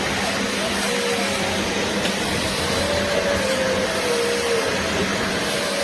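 BISSELL Little Green portable upholstery cleaner running steadily, its suction motor giving a continuous rushing hum.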